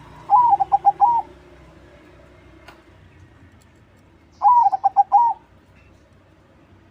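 A crossbred ('crossing') perkutut, a zebra dove, cooing its song twice, about four seconds apart. Each phrase runs about a second: an opening note, a quick run of short beats, and a closing note.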